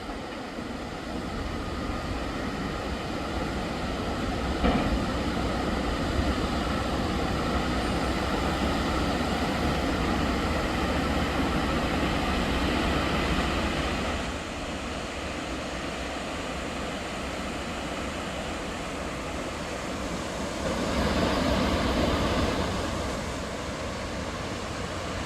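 Floodwater rushing past in a steady, rumbling noise that swells louder for a while in the middle and again near the end.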